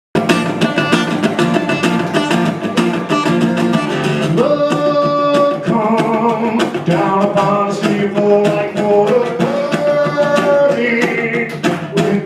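Live acoustic guitar strummed in a steady rhythm, with a voice carrying a melody over it from about four seconds in.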